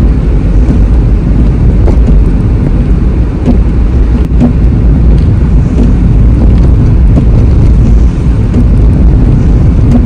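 Steady low rumble of road and engine noise inside a moving car's cabin while driving.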